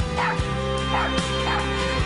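A puppy yipping three times in short, high yelps, over background music.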